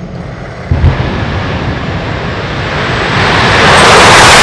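Dragster making a full-throttle run down the drag strip. A sudden blast about a second in, then a very loud engine noise that keeps building over the next few seconds.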